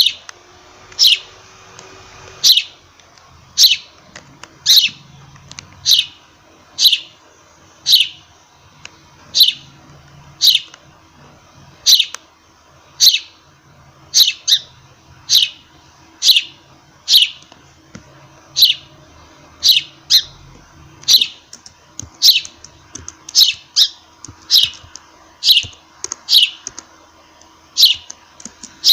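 A sparrow chirping: loud, short single cheeps, each dropping quickly in pitch, about one a second and now and then two in quick succession.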